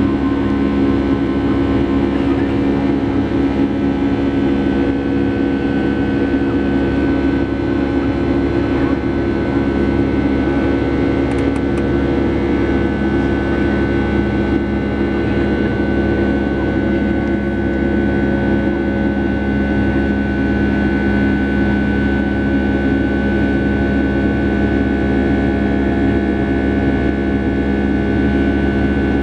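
Boeing 757-300's jet engines and airflow heard from inside the passenger cabin: a steady loud drone with a few steady whining tones.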